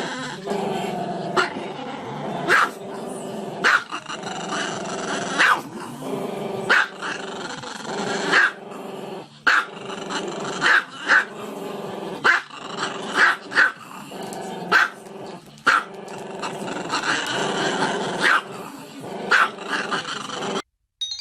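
A dog growling steadily, breaking into sharp barks about once a second. The sound cuts off abruptly near the end.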